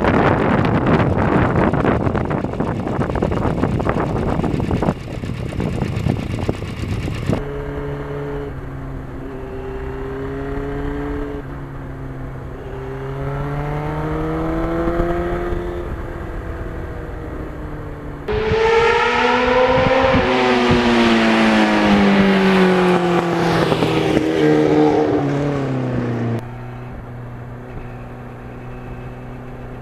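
Wind buffeting the microphone on a moving 1991 Yamaha FZR motorcycle, then the FZR's engine running under way. Its pitch climbs and falls as the bike speeds up and slows, with wind rush over it. Near the end it settles into a steadier, lower note.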